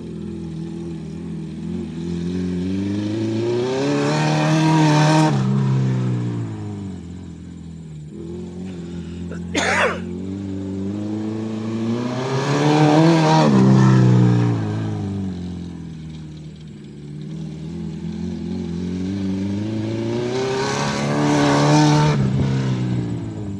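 Acura RSX's four-cylinder engine revving up and easing off three times in a row as the car turns laps on a dirt track, with a brief sharp sound about ten seconds in.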